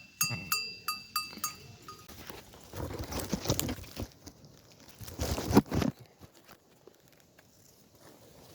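Quick metallic clinking, about seven bell-like rings in the first two seconds, then two longer rushing noises about a second each.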